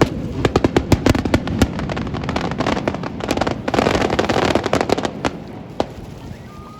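Fireworks display: rapid bangs and crackling of shells bursting, densest about four seconds in, then thinning and fading near the end.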